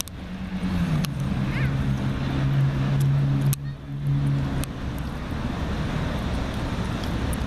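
A motor vehicle running with a low road rumble; its engine hum drops in pitch about a second in and dies away around the middle, with a few sharp clicks.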